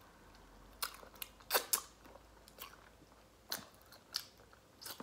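Close-up mouth sounds of someone eating a cheese-sauce-dipped Italian beef sandwich: wet lip smacks while chewing with the mouth open, about seven short, sharp smacks at uneven intervals.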